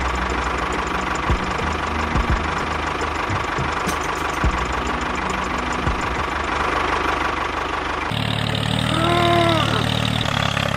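Steady engine-like running of a mini tractor, with a few short knocks. About eight seconds in it switches abruptly to a lower, steady drone, with a brief call over it that rises and falls.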